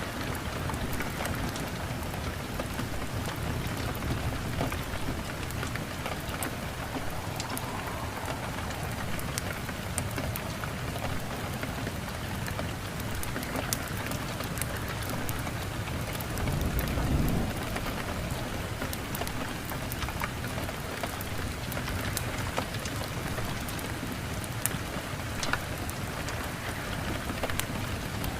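Steady rain, with a low rumble of thunder swelling about seventeen seconds in.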